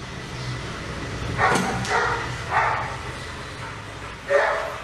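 Dog barking, about four separate barks over a few seconds, over a low steady background hum.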